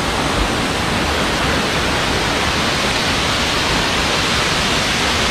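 Waterfall's falling water, a loud steady rushing noise.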